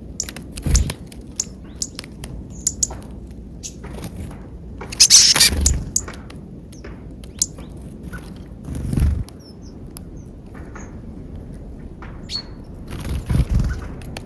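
Small birds feeding on peanuts at a feeder: a scatter of sharp pecks and taps with occasional short, high chirps. Four louder thumps with rustling come through, the loudest about five seconds in.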